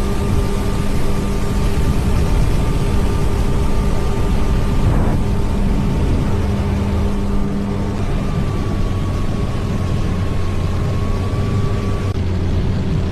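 Jet ski engine fitted in a small speedboat, running steadily at an even speed.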